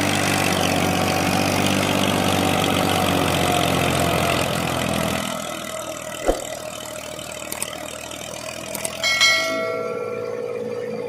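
Massey Ferguson 1035 DI tractor's three-cylinder diesel engine running loud and steady, then easing off about five seconds in, with a sharp click about a second later. Near the end a short pitched tone sounds, followed by a wavering higher tone.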